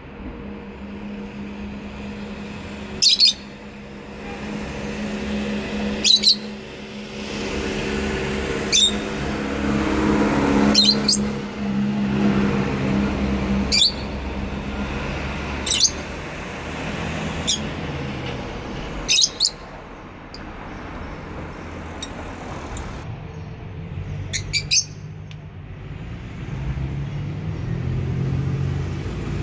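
Lovebirds giving short, shrill chirps, about nine in all a couple of seconds apart, some in quick pairs, over a steady low hum.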